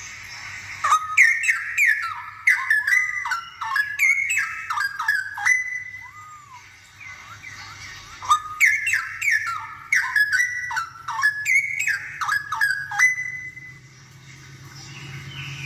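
Straw-headed bulbul (cucak rowo) in full song: two runs of rapid, rich whistled notes that glide up and down, the first about a second in and the second after a short pause.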